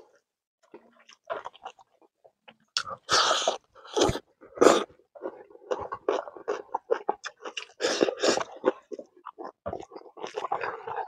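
Close-miked chewing and mouth sounds of a person eating smoked pork, kidney beans and rice by hand, in short irregular bursts that are loudest from about three to five seconds in and again around eight seconds.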